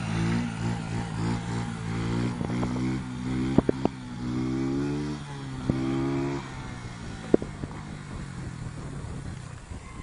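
A motorcycle engine running, its pitch rising and falling as the throttle is worked, with a longer rev about four to six seconds in, then dropping quieter. A few sharp clicks or knocks stand out over it.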